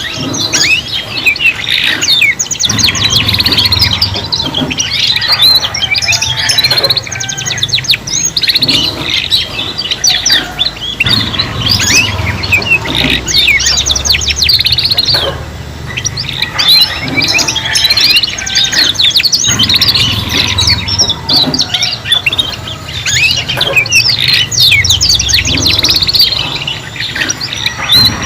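Young domestic canaries singing together in rapid, continuous trills and chirps, their voices overlapping; juvenile birds practising song.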